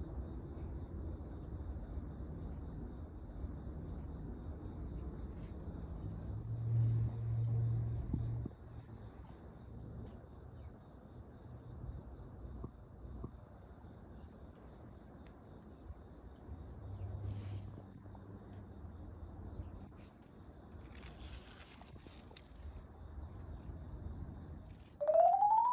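Crickets chirping in a steady high-pitched chorus over a low outdoor rumble, with a rising tone near the end.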